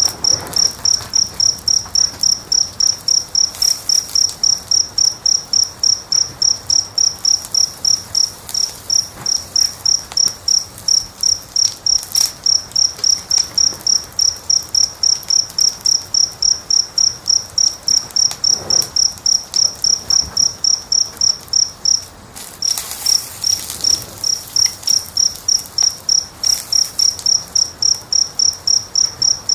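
A cricket chirping steadily and loudly, about three high chirps a second, breaking off briefly about three-quarters of the way through, over faint crackles and pops of a wood fire.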